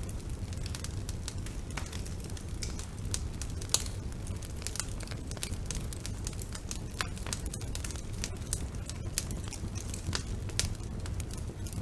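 Wood fire burning in a fireplace: logs crackling with irregular sharp pops over a steady low rumble of the flames, with a louder pop about four seconds in and another near the end.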